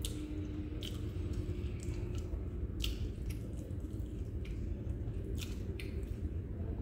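Close-up eating sounds: chewing with scattered short, wet clicks and smacks as meat is picked off a cooked porgy's backbone and eaten, over a low steady hum.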